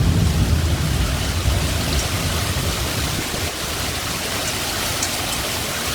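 Heavy thunderstorm rain pouring steadily, with a low rumble that fades over the first two seconds or so.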